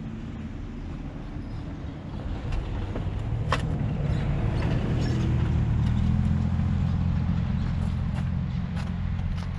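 A vehicle engine running with a steady low hum, growing louder from about three seconds in and then holding, with a sharp click partway through.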